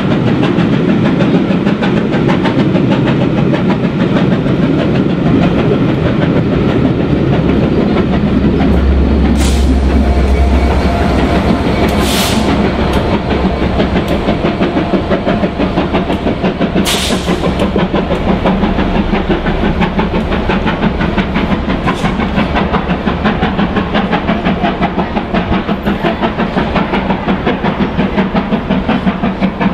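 A long passenger train passing close by: the coaches rumble and click over the rail joints, with a few sharp metallic clicks. A deep engine drone swells about nine to fourteen seconds in as the Class 67 diesel on the rear goes by. Through it runs a fast, steady beat, typical of the exhaust of Britannia, the 4-6-2 steam locomotive hauling the heavy train up the 1-in-60 bank.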